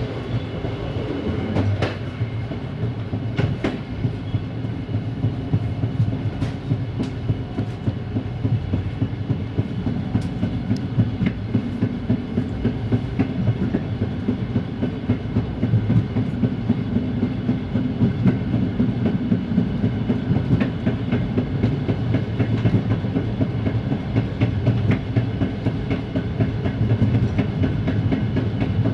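Passenger train running on jointed track: wheels clicking over the rail joints over a steady low rumble of the running gear.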